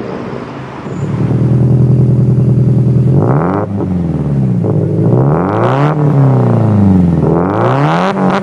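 Subaru Impreza WRX STi's turbocharged flat-four boxer engine held at a steady raised speed, then revved up and allowed to fall back three times, the pitch rising and falling smoothly.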